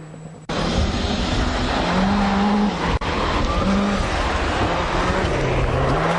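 A Group B rally car driven hard on a stage: about half a second in, loud tyre and road-surface noise starts suddenly, with the engine note rising and falling as the car works through the section. There is a brief break at about three seconds.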